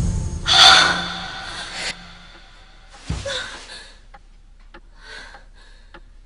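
A person's sharp, breathy gasp of fright about half a second in, over the fading tail of a loud horror music sting. A short thud follows about three seconds in, then faint scattered ticks and soft breaths.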